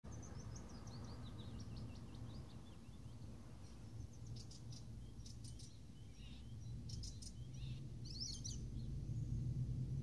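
Small songbirds singing: a run of quick falling high notes in the first second and a half, then scattered short chirps and calls from about four seconds in. A steady low city rumble lies beneath them.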